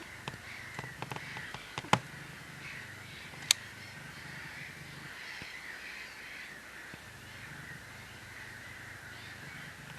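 A steady chatter of many distant birds calling together, with a few sharp clicks in the first few seconds, the loudest about two seconds and three and a half seconds in.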